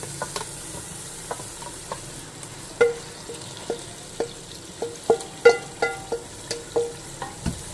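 Masala frying in oil, sizzling steadily as ground boiled spinach is tipped into the pot, at the stage where the masala has released its oil. From about three seconds in, a run of sharp metallic clinks with a short ring comes as the steel bowl is knocked and scraped against the pot.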